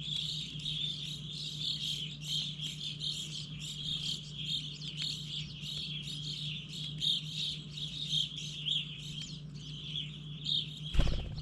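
Many small birds chirping continuously in a dense, overlapping chatter, over a low steady hum, with one sudden thump near the end.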